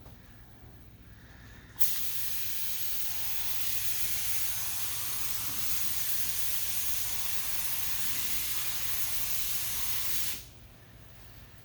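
Air spray gun spraying a coat of thinned lacquer primer at low air pressure: a steady hiss that starts suddenly about two seconds in and cuts off sharply about eight and a half seconds later as the trigger is released.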